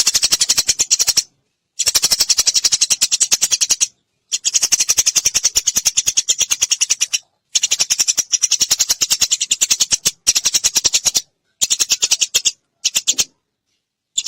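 Eurasian tree sparrow chirping in rapid runs, with bouts of one to three seconds broken by short silent gaps, as in an edited call track.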